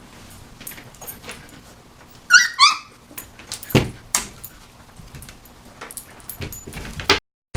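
Young puppy whimpering: a short run of high squeaks about two seconds in, among scattered small clicks and rustles. The sound cuts off suddenly near the end.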